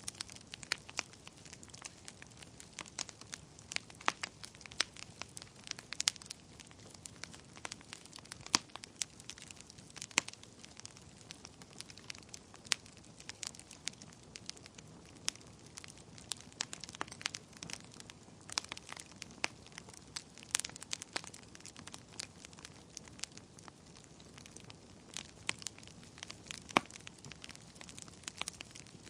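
Fire burning in a fireplace, crackling steadily: irregular sharp pops and snaps over a soft, even hiss.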